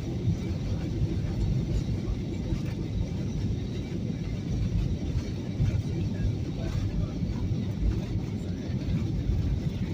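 Steady low rumble of an airliner heard from inside the cabin: engine and airflow noise while the plane descends toward landing.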